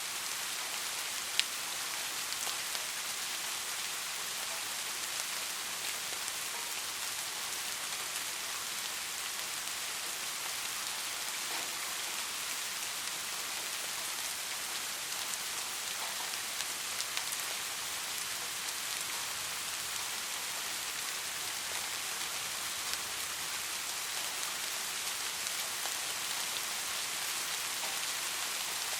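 Steady rain falling, a constant hiss with scattered drops ticking; one sharper drip about 1.4 seconds in.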